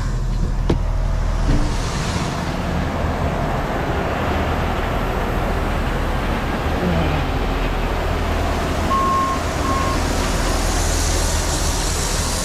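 Inside the cab of a moving semi truck: the diesel engine drones steadily under a wide wash of road noise. Two short beeps come about three-quarters of the way through.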